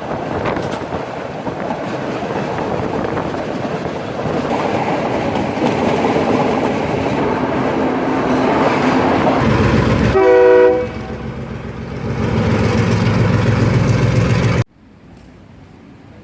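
Train running on the rails, a steady rumble that grows louder, with one short horn blast about ten seconds in. The rumble drops off suddenly near the end to a faint hum.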